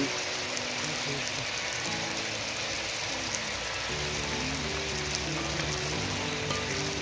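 Chicken pieces frying in hot oil in an aluminium pot over a wood fire: a steady sizzling hiss.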